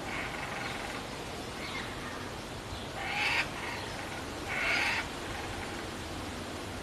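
Two short, harsh calls from a kookaburra, about a second and a half apart, over a steady background hiss.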